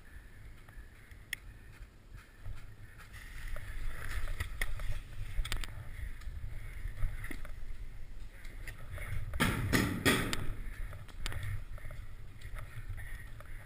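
Wind and handling rumble on a body-worn GoPro action camera, with scattered clicks and rustling. About nine and a half seconds in comes a brief cluster of sharp clattering noises.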